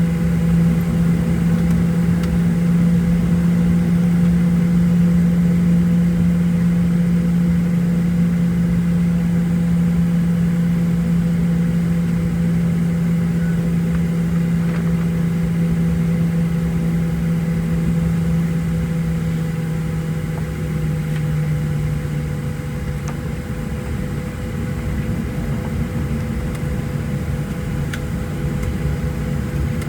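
Steady drone inside the cabin of a Boeing 737-700: a loud low hum with fainter higher tones above it. About 21 seconds in, the hum drops a little in pitch and fades.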